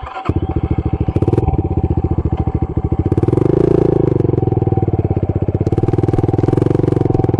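Pit bike's single-cylinder engine firing up and running with a rapid, even chuffing beat. From about 3 s in it picks up to a louder, steadier run.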